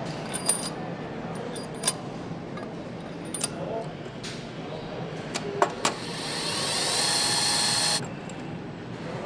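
Metal clicks and knocks of engine assembly work, then a power tool whirring for about two seconds near the end, its whine rising and then holding before it cuts off suddenly.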